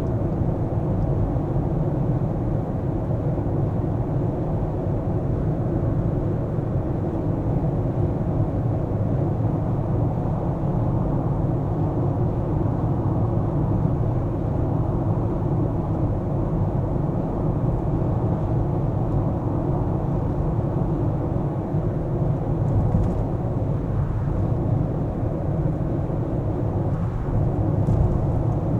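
A car driving along: a steady low rumble of engine and road noise that holds level throughout.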